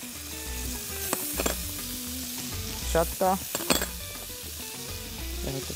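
Vegetables and garlic frying in oil and vinegar in a heavy iron pan, sizzling steadily. A silicone spatula stirs and scrapes against the pan, with a few sharp knocks.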